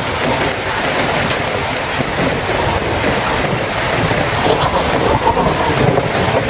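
Steady heavy rain falling, with a low rumble of thunder underneath.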